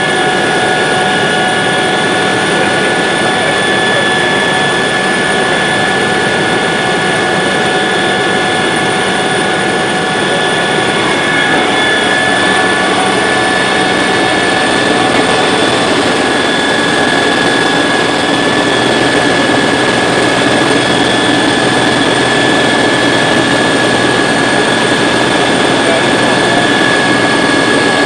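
Helicopter engine and rotor noise heard from inside the cabin during flight: a loud, steady roar with steady high whines over it.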